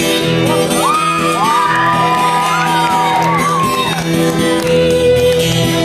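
A rock band playing live: the slow opening of a waltz-time song, sustained chords over a steady bass, with a long high line sliding up and down in pitch over the first half.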